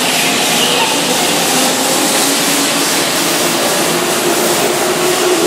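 Keihan electric commuter train running past the platform: steady wheel-and-rail running noise with a motor whine that slowly rises in pitch as the train gathers speed.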